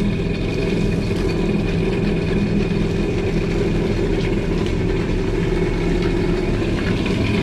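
Yamaha FX Cruiser jet ski's four-stroke engine idling steadily out of the water, run with a garden hose connected for a freshwater flush of its cooling system.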